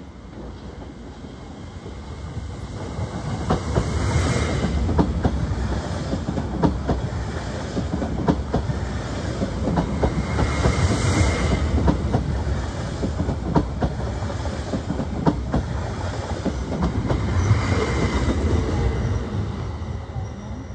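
SOB Traverso electric multiple unit pulling into the station and running close past, a steady rumble with wheels clicking and clattering over the points and rail joints. High squeals or hisses come and go at times.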